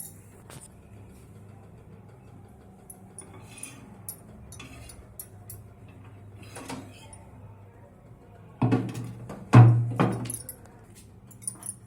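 Microwave oven door and glass cookware being handled: scattered light clicks and clinks over a low steady hum, then a few loud knocks and thumps about nine seconds in.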